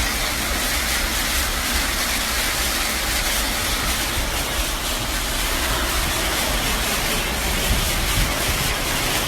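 Loud, steady rush of a heavy rainstorm with a deep rumble underneath.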